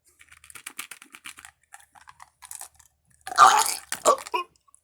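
Crisp crunching and chewing of a dried zebra tarantula, many short crackles in quick succession, then a loud breathy burst about three and a half seconds in with a shorter one just after.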